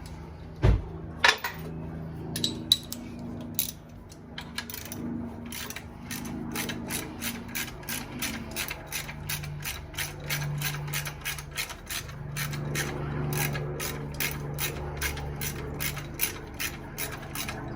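Hand ratchet wrench clicking as bolts are loosened. The clicks come in a steady run of about three to four a second, after two sharp metal knocks near the start.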